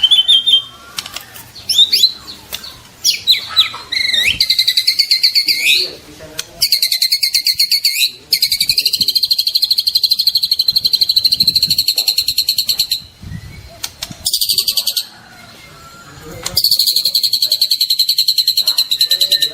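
Juvenile white-rumped shama singing: a few quick whistled glides, then long, rapid trills lasting several seconds each, broken by short pauses.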